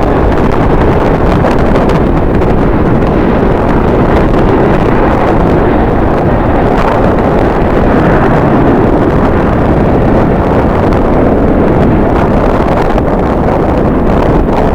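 Strong wind blowing across the microphone, loud and steady throughout.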